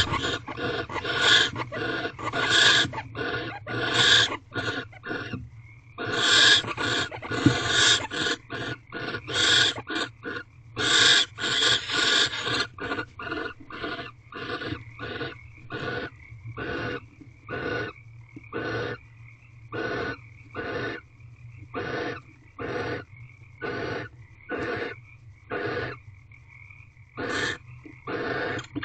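Barn owls calling in the nest box: a long series of short calls, rapid and crowded at first, then settling into a regular rhythm of about one a second, over a steady low hum.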